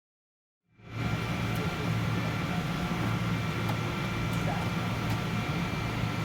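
Steady cabin hum of a Boeing 777-200 airliner, air-conditioning and engine noise with a low drone and a few faint steady whines. It comes in out of a brief dead silence within the first second.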